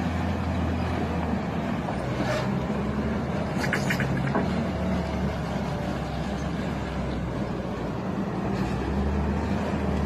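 Car driving along: a steady low engine and road drone, with a couple of brief higher sounds about two and four seconds in.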